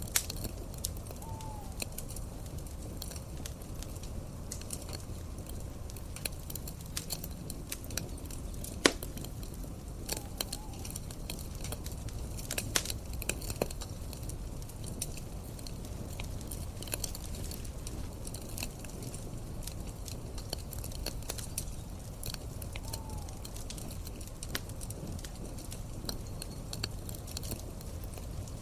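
Campfire crackling, with scattered sharp pops over a steady low rumble; one pop about nine seconds in is much louder than the rest.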